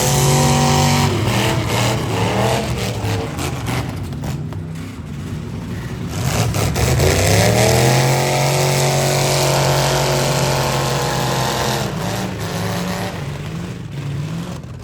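Demolition derby cars' V8 engines revving hard: the pitch rises right at the start, falls away, then climbs again about halfway through and is held high for several seconds before dropping off. A few sharp knocks come in the lull between the revs.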